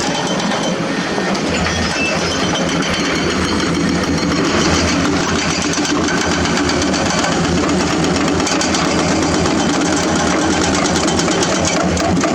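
Heavy diesel construction machinery running steadily, with a dense clatter over the engine's low drone.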